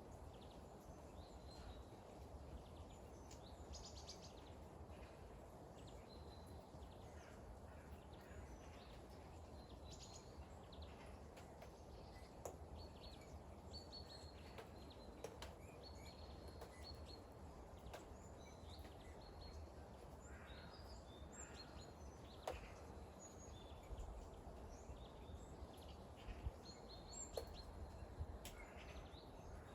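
Faint steady rain with a few sharp drips, while small birds chirp briefly and repeatedly.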